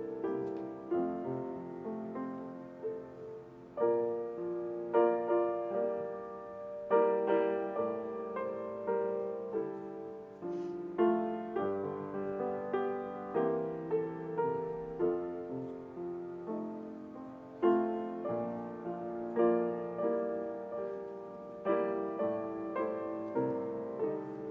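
Solo piano playing a gentle piece, chords struck and left to fade.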